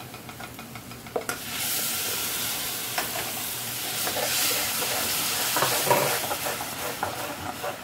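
Tomato paste poured onto hot oil and fried onion masala in a metal kadhai, setting off a loud sizzle about a second and a half in. A steel ladle clicks and scrapes against the pan as it is stirred.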